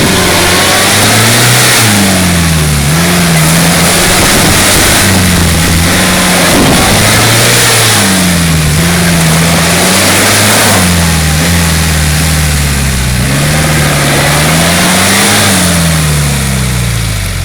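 Daihatsu DL50 2.8 L turbo diesel revving hard and repeatedly, the revs rising and falling every few seconds as the bogged ute is driven to get it out of the mud, then dropping back near the end.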